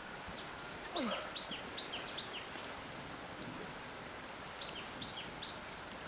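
A bird calling in short, repeated, downward chirps: a run of four about a second in, opening with a lower falling note, and three more near the end. Faint scattered clicks from the crackling wood fire sit under the calls, over a steady outdoor hiss.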